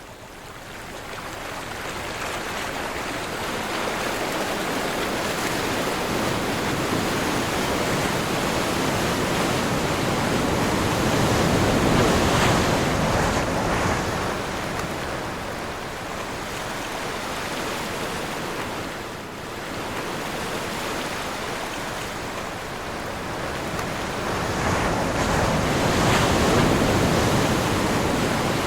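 Ocean surf: waves breaking and washing in, building from a lull at the start to a peak about twelve seconds in, easing off, then swelling again near the end.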